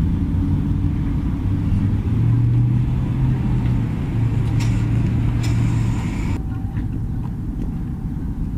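A motor vehicle engine running with a low, steady hum that grows louder about two seconds in and eases off after about six seconds.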